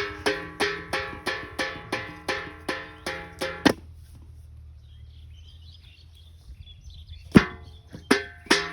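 A bowl knocking and rattling in a steady rhythm of about three ringing knocks a second, each at the same pitch. The knocks stop just under four seconds in. After a quieter stretch with faint high chirps, a few more knocks come near the end.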